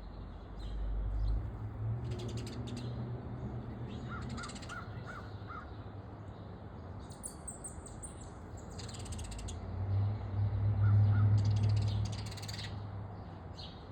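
Backyard wild birds chirping and calling, with a quick run of five short calls about four seconds in and two more near ten seconds. Under them a low rumble swells twice and is loudest around ten to twelve seconds in.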